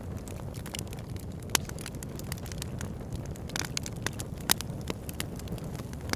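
Wood fire burning in a fireplace: a steady low rumble of flames under frequent crackles, with two sharper pops about a second and a half and four and a half seconds in, and a brief hiss just after the middle.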